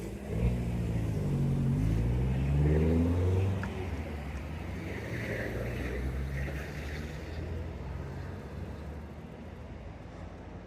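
A motor vehicle's engine close by: its pitch drops as it slows, then rises as it accelerates, loudest in the first three and a half seconds, then fading as it moves away.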